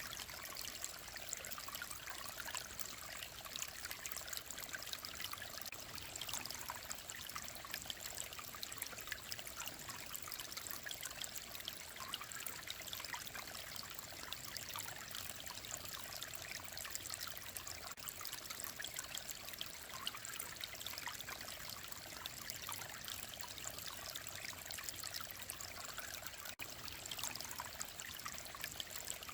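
Mountain stream flowing steadily over rocks, a continuous babbling and trickling of clear water.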